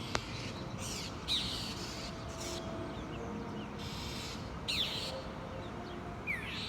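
Birds calling with short, sweeping calls several times over, as they mob and dive at a cat.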